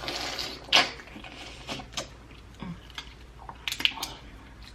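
Close-up eating and food-handling noises from prawns being peeled and eaten: a brief rustle, then a string of sharp clicks and crackles, the loudest a little under a second in.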